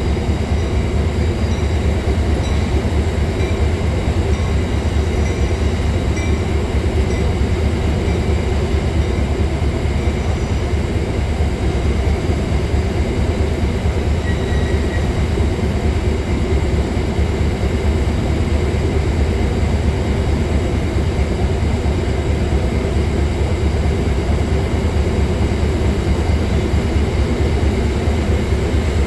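Diesel passenger trains moving slowly through the station: a Metrolink train being shoved in by its F59PHR locomotive and an Amtrak Pacific Surfliner departing. Their engines make a steady, loud low rumble, with faint steady high tones above it.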